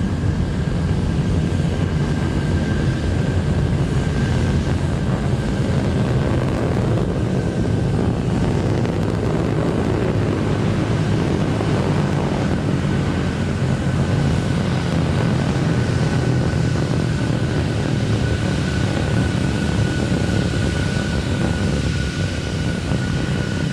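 Steady, dense low rumble of the Terran 1 rocket's nine-engine methane first stage climbing after liftoff, with a faint steady high tone over it.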